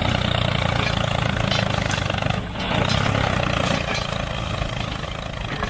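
A DIY mini tractor's small motor running steadily under load, with a brief dip about halfway through.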